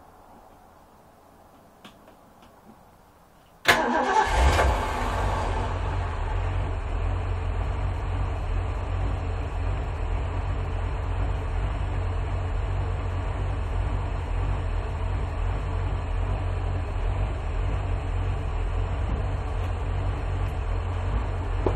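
OMC 190 V8 stern-drive boat engine starting, catching abruptly about four seconds in. It runs briefly louder as it fires up, then settles into a steady idle.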